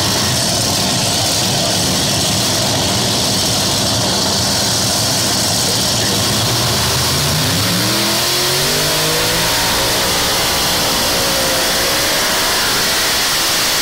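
Loud engine of a competition puller running hard, its pitch climbing steeply about seven seconds in as it revs up, then holding high.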